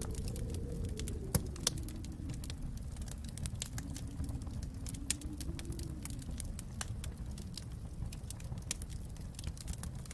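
Wood fire in a fireplace crackling, with frequent irregular sharp pops over a steady low rumble that slowly rises and falls in pitch.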